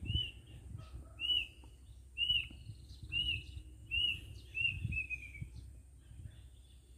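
A bird calling: a series of about seven short notes, all at the same pitch, roughly one a second, the last few coming quicker, then stopping about five and a half seconds in.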